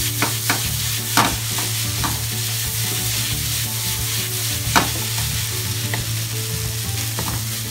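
Ketchup rice sizzling in a nonstick frying pan over a gas flame while a wooden spatula stirs it and the pan is tossed; the ketchup is being fried into the rice to toast it. A few sharp knocks ring out at intervals, over a steady low hum.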